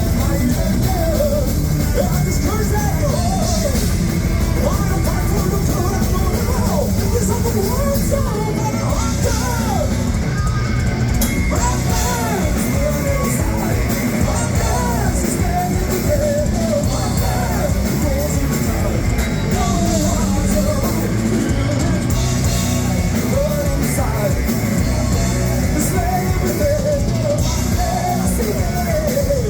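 Live heavy metal band playing at full volume: drum kit and heavy low-end guitar and bass under a bending vocal or lead melody, with sung and shouted vocals.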